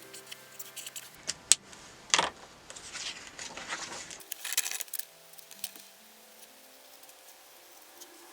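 Small clicks, taps and rustles of pens and paper being handled on a desk, several sharp clicks in the first half, over faint background music.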